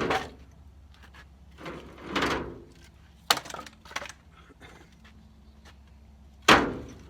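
Split firewood being stacked: pieces of wood knocking together as they are set down on the pile, several separate knocks with the loudest near the end.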